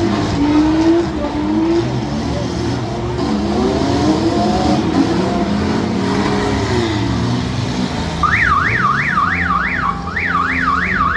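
Derby car engines revving up and down. About eight seconds in, a fast electronic warbling alarm starts, sweeping up and down a little over three times a second.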